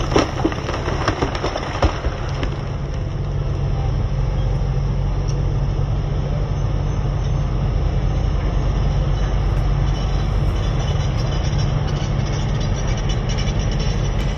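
A large engine of heavy equipment running steadily with a deep rumble, with some knocks and clatter in the first two seconds.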